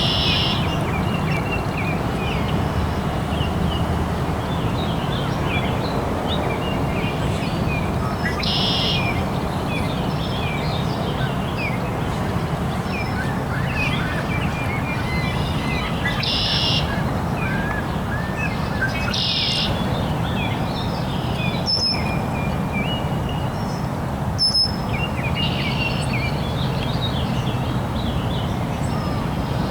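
Several small birds chirping and calling. A short, harsh, buzzy call comes back every several seconds, about five times, over a steady low background rumble.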